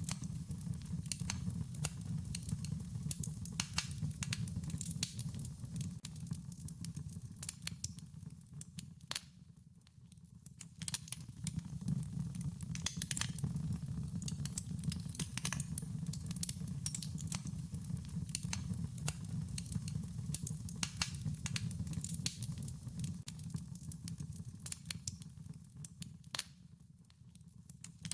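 Wood fire crackling, with irregular sharp snaps and pops over a steady low rumble of burning. The sound thins out briefly twice, once about a third of the way in and again near the end.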